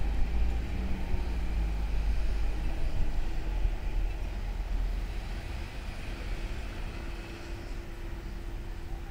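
Low rumble of a Seibu 2000-series electric train fading as it pulls away, steadily dying down over several seconds.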